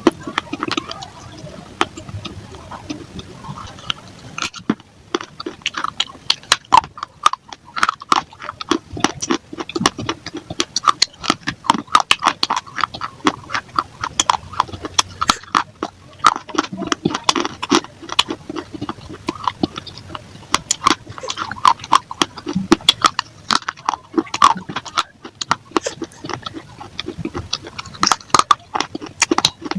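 A person biting and chewing hard clay, such as clay balls and pieces of clay pot: dense, rapid crunching and crackling with a few short breaks.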